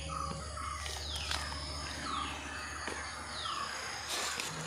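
Birds calling: one repeats a high note that slides down in pitch about once a second, with other shorter calls lower down and a few faint knocks.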